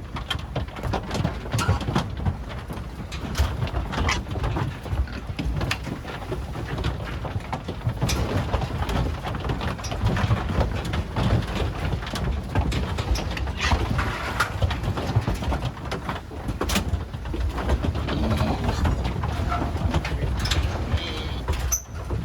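Pigs being loaded onto a livestock truck: low grunting and scattered knocks and clatter of hooves and gates, over a steady low rumble.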